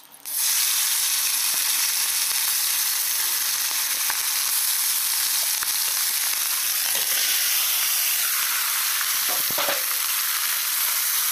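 Potato pieces in masala sizzling in hot oil in a metal kadai, stirred with a steel ladle that clicks against the pan now and then. The sizzle starts abruptly just after the beginning and then stays steady.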